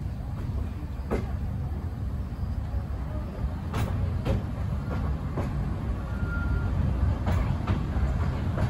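Passenger train running along the rails, heard from inside the coach: a steady low rumble with irregular sharp clacks from the wheels and track.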